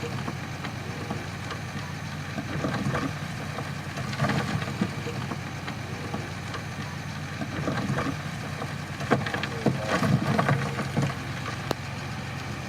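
Crawler bulldozer's diesel engine running steadily, with a few sharp metallic knocks in the last third.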